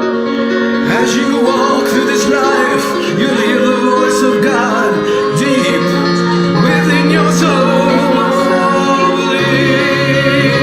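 A choir singing over sustained chords of a song's accompaniment.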